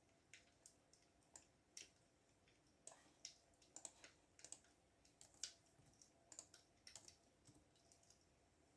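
Faint typing on a computer keyboard: irregular key clicks, quickest and loudest through the middle few seconds, sparse near the start and end.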